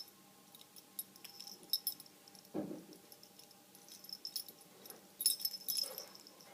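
Kitten's collar bell jingling in irregular shakes as the kitten moves and tries to get the new collar off, with a short kitten mew about two and a half seconds in.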